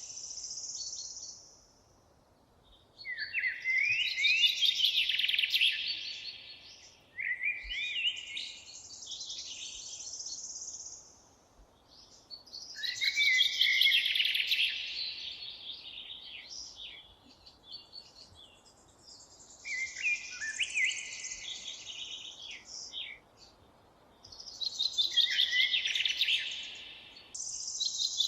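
A songbird singing: long phrases of rapid, varied warbling and trilling notes, each a few seconds long, repeated about five times with short pauses between them.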